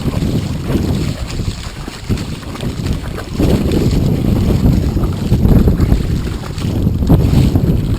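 Strong wind buffeting the microphone: an uneven low rumble that swells and eases in gusts, dropping off briefly and coming back stronger about three and a half seconds in.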